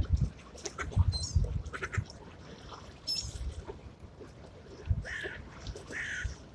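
Crows cawing, with two harsh caws near the end, alongside a few short high bird chirps earlier. Gusts of wind rumble on the microphone.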